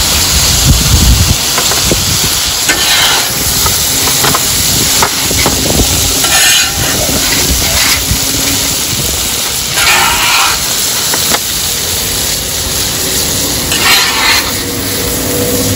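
Shrimp sizzling on a hot flat-top griddle, with a metal spatula scraping across the steel plate four times, a few seconds apart, as the shrimp are scooped off.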